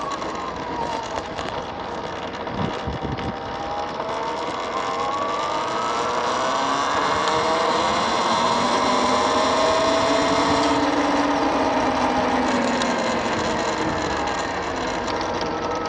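A petrol-engined vehicle running nearby, its engine pitch rising over a few seconds, loudest in the middle, then falling away. Over steady wind noise on the microphone of a moving electric motor scooter.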